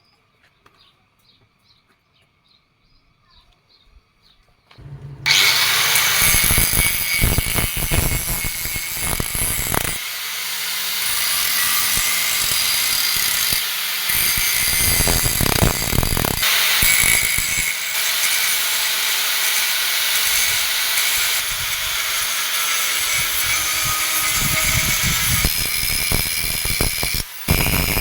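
A power tool working leaf-spring steel starts up about five seconds in and runs loud, with a harsh high hiss whose load rises and falls as it bites into the metal. It drops out for a moment near the end and then picks up again.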